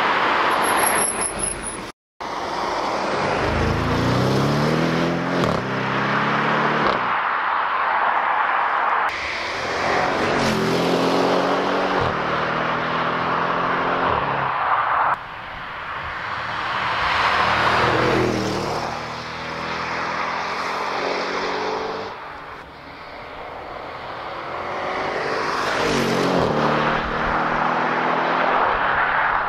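Audi RS7's 4.0 TFSI twin-turbo V8 accelerating hard past the roadside, its engine note climbing and dropping back with each upshift, several times over in short cut-together passes.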